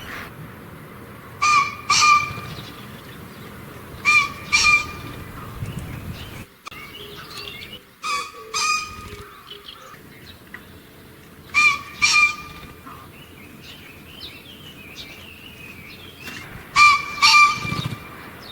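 A bird repeatedly giving a loud, harsh two-note call, five times, a few seconds apart.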